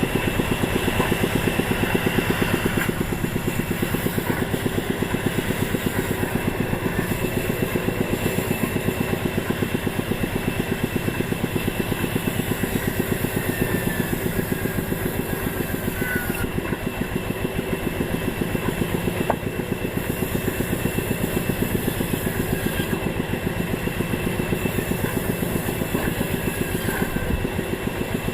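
Engine of a wood-cutting machine running steadily with a fast, even firing beat.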